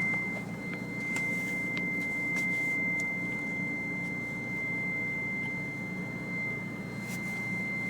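Mitsubishi 3000GT VR4's twin-turbo V6 idling steadily, with a steady high-pitched tone held over it.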